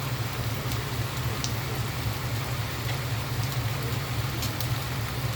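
Steady rain falling, with scattered drops ticking on a nearby surface, over a constant low hum.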